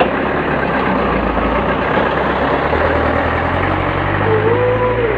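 Heavy truck engine running close by, a low steady rumble that grows stronger about three seconds in.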